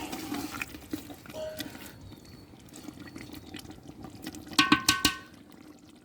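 Liquid sloshing in a cooking pot with scattered clicks. A quick run of ringing clinks of a metal utensil against a steel vessel comes about four and a half seconds in.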